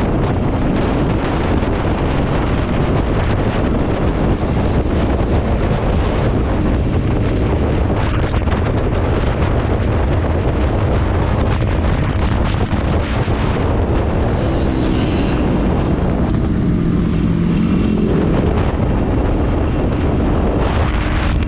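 Loud, steady wind buffeting on the microphone, a dense low rumble, with a few faint pitched tones about two-thirds of the way through.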